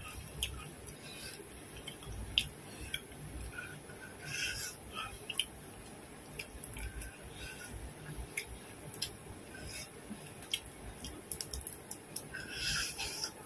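Mouth sounds of someone eating grilled meat with her hands: scattered short wet clicks and smacks of chewing, with a cluster of louder smacks near the end.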